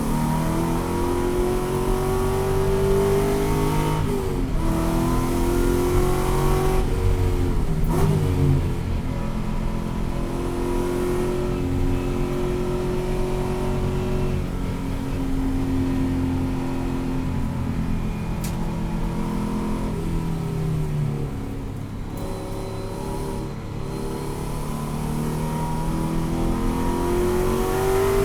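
Ford Boss 302 race car's 5.0-litre V8 at racing speed, revving up through the gears: the engine note climbs in each gear and drops sharply at the shifts, several times.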